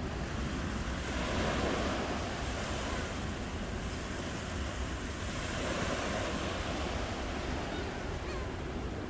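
Ocean waves washing ashore: a steady rush of surf that swells twice, about two seconds in and again about six seconds in.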